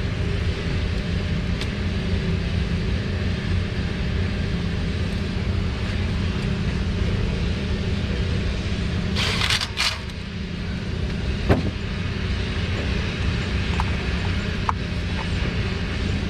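A steady low mechanical hum from a running motor or engine. A short, loud hiss comes about nine seconds in, and a single sharp click about two seconds later.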